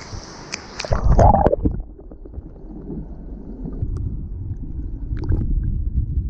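Splash about a second in as the camera goes under the stream's surface, then muffled underwater gurgling and a low rumble of the moving water, with faint clicks.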